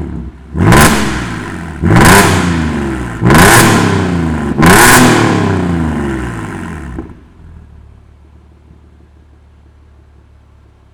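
Genesis EQ900's 3.8-litre Lambda II V6 through an aftermarket dual variable-valve exhaust with sports resonator and H-pipe, free-revved in four sharp blips about a second and a quarter apart, each falling back. About seven seconds in it drops to a low, steady idle.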